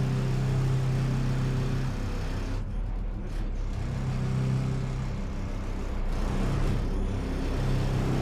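Boat engine running steadily under way, a low hum with a rushing noise of wind and water over it.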